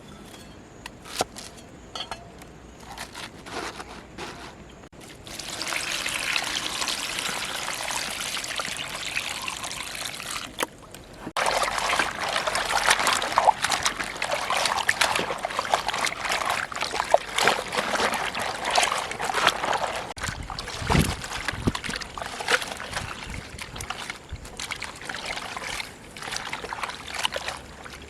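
Water pouring and sloshing, starting about five seconds in, breaking off briefly near eleven seconds, then running on with many small clicks and splashes, as in washing food in a basin.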